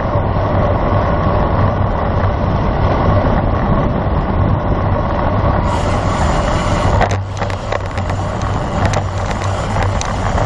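Steady rushing wind and road noise on a road bike-mounted camera's microphone while riding, with a low hum and a few faint clicks.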